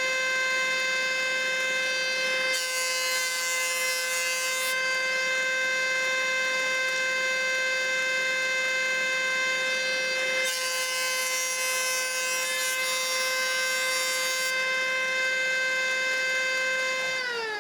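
A high-speed electric power tool motor running with a steady high whine, cutting into wood twice with a hissing rasp, then switched off and spinning down near the end.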